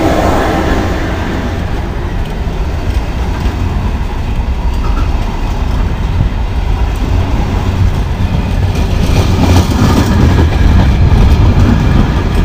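Freight wagons of a departmental train rolling past close by at speed: a steady heavy rumble of wheels on rail, with clattering over rail joints that grows louder about nine seconds in.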